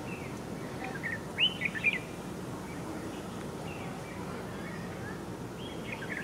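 A wild bird singing: a short phrase of a few clear, arching whistled notes about a second and a half in, and the phrase again near the end, over a steady low background hiss.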